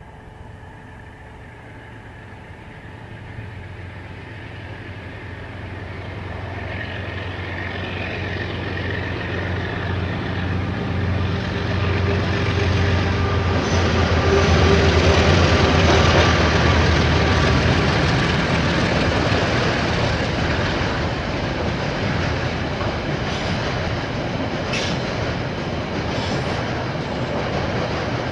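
KiwiRail diesel-hauled train approaching and passing. The engine drone grows louder over about fifteen seconds to a peak midway, then the train goes on rumbling steadily past.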